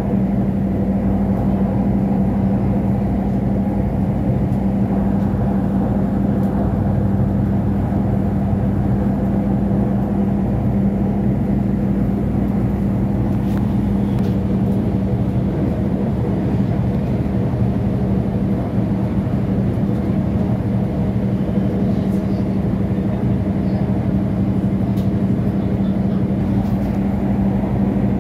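Steady running noise of a diesel train heard from inside the carriage: a constant engine drone over wheel and track rumble. The deepest part of the drone drops away about halfway through.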